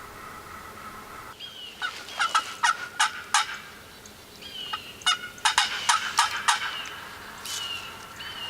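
Turkey yelping: two quick runs of sharp, loud notes, about three a second, with softer calls between the runs.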